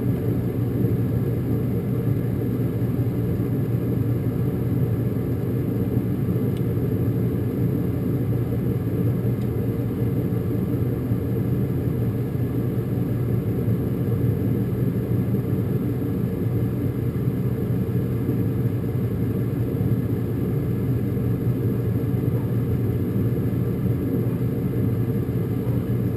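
Gas furnace's draft inducer motor running with a steady low hum, the pre-purge stage of the furnace's start-up sequence before the gas valve opens.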